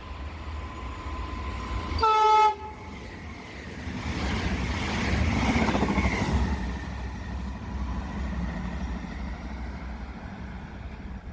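Train horn sounding one short blast, then a passing train's rumble that builds up and eases off.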